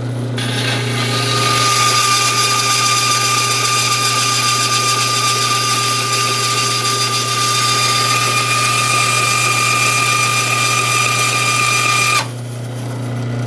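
Old Craftsman 12-inch band saw with a worn 4-teeth-per-inch wood-cutting blade cutting through 3/4-inch aluminum plate. A steady high whine and hiss from the blade in the metal starts about half a second in over the motor's hum. It stops abruptly about a second before the end as the blade breaks through, leaving the saw running.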